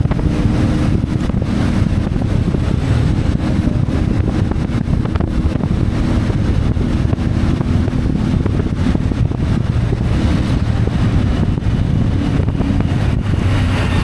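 CFMoto 450MT parallel-twin engine running steadily under way, with wind rushing over the microphone.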